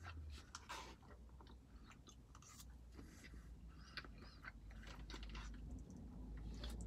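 A person chewing and biting Chinese food close to the microphone, with scattered small clicks and mouth noises over a low steady rumble.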